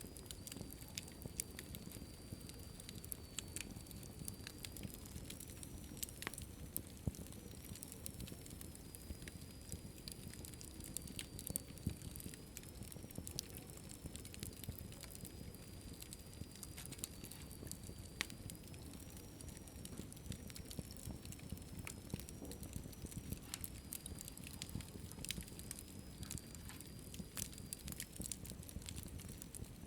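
Wood fire in a fireplace crackling, with frequent sharp, irregular pops and snaps over a low, steady rumble of the flames.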